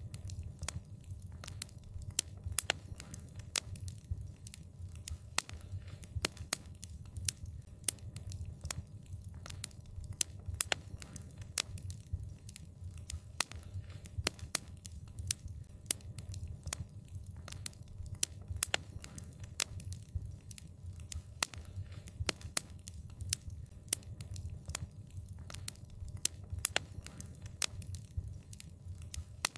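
Wood fire crackling: sharp pops and snaps several times a second over a steady low rumble.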